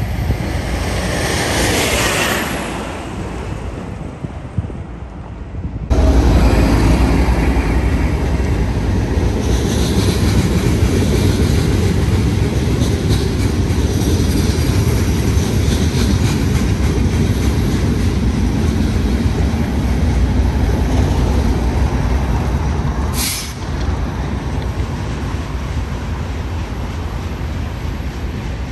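Freight train of loaded ballast hopper cars rolling past, a loud steady rumble of steel wheels on rail. Wind noise on the microphone in the first few seconds, then a sudden change to the louder, steadier rumble about six seconds in.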